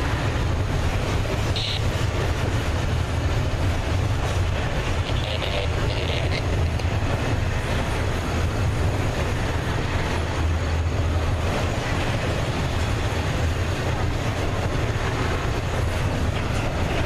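A train rolling past: a steady, continuous rumble of wheels on rail, with a few brief higher-pitched squeals.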